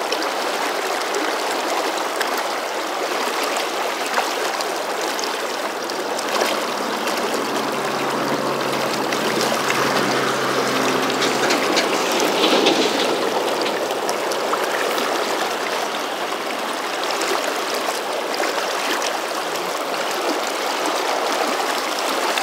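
Fast, strong current of the South Fork Snake River rushing steadily past, a continuous even wash of moving water.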